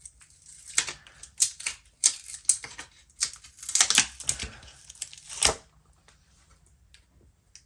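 Adhesive backing film being peeled off the glue strips of a replacement laptop battery: an irregular run of crackles, clicks and short tearing scratches, which stops a couple of seconds before the end.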